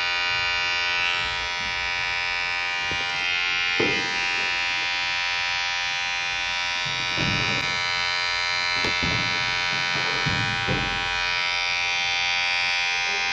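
Electric hair clipper running with a steady buzz, its vibrating blade making a stack of even tones, with a few short louder bursts along the way.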